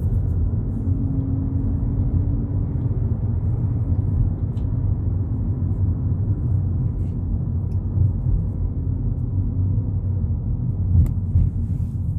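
2022 Volkswagen Polo GTI driving along, a steady low rumble of engine and road noise, with a few light ticks.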